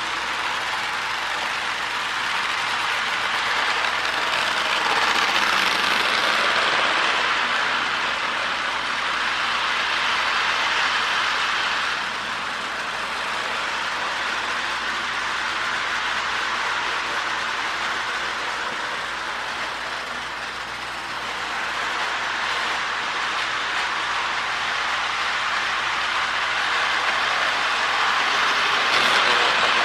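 A Marx E7 powered model train running on its track: a steady motor whir with the wheels rattling over the rails. It gets louder twice as it passes close, about a third of the way in and again near the end.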